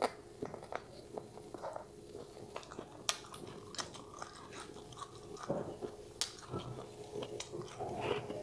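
A person chewing stir-fried chicken gizzard with the mouth close to the microphone: a steady run of crunchy, wet chewing sounds with many small sharp clicks.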